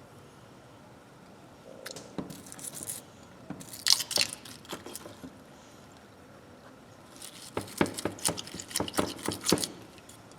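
Hands handling a pair of freshly cleaned old pliers: scattered metal clicks and rustles, with a quick run of clicks near the end.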